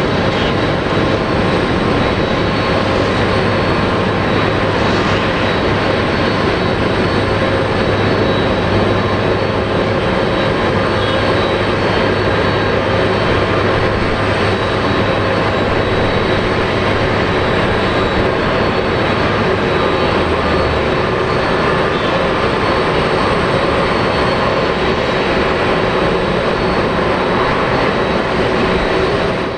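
Jet engines of a Boeing 777-200 running, a loud steady noise with several steady tones in it. A low hum underneath drops away about two-thirds of the way through.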